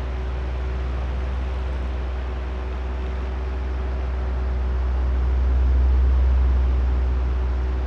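Oscillating electric fan running: a steady rush of air over a low motor hum, growing louder as the fan head swings round, loudest about six seconds in, then easing off.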